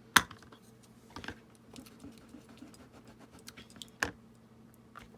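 Small cork-mounted rubber stamps and craft items being handled and set down on a work table: a sharp knock just after the start, another near four seconds in, and scattered lighter clicks between.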